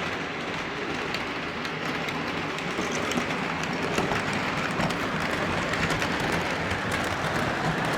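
O scale model train running on its track: a steady rumble with faint, frequent clicks from the wheels on the rails.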